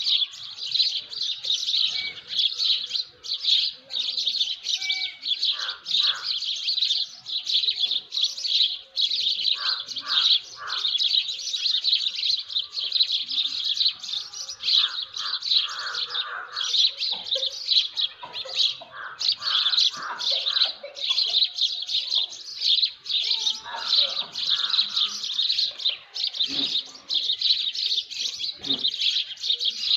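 Dawn chorus of many small birds chirping densely and without pause, with louder, lower calls from other birds breaking in every few seconds.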